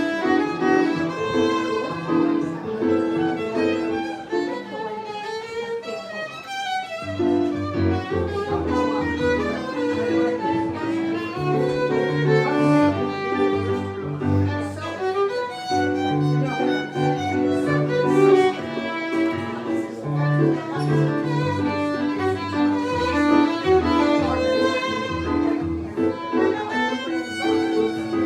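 Violin and piano duo playing Brazilian choro: the violin carries a quick melody over the piano's accompaniment. Around four seconds in, the piano's low part drops out for a couple of seconds, then comes back.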